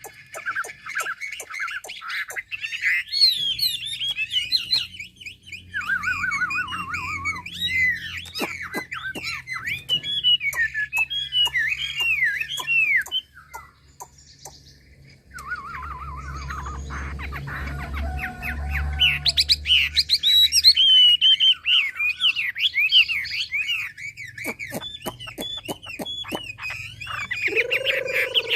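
A caged Mi songbird singing a long, varied song of fast warbled phrases and trills, broken by many sharp clicks. It pauses briefly near the middle. Near the end a lower, falling call sounds.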